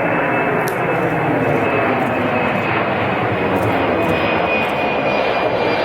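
Airplane engines running loud and steady: a dense rushing noise with a thin, high, steady whine that sinks slightly in pitch.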